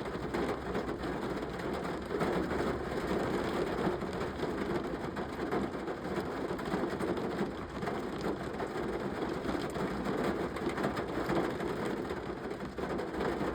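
Rain falling steadily, a dense, even patter of drops on surfaces.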